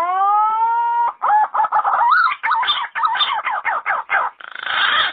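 Yellow-footed green pigeon singing: a long whistle that rises and then levels off, followed by a quick run of wavering, warbling whistled notes and a few rougher, harsher notes near the end.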